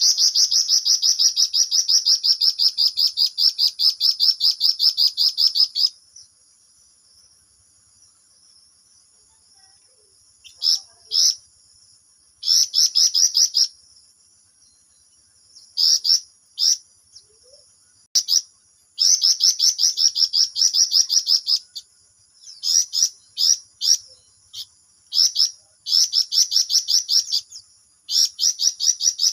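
Flamboyan songbird in full song, delivering long, fast rolling trills of rapidly repeated high notes. A six-second unbroken trill opens, then after a pause come shorter bursts of trilling and another run of about three seconds.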